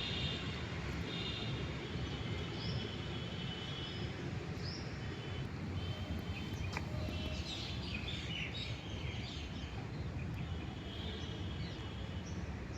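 Small birds calling outdoors: repeated short trills and quick rising chirps, busiest about seven to nine seconds in, over a steady low background rumble. A single sharp click about seven seconds in.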